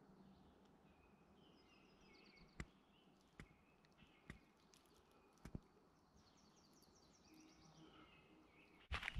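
Faint songbird song: short runs of quick high chirps, repeated several times, over a very quiet background, with a few soft sharp clicks. Just before the end a sudden, much louder burst of noise breaks in.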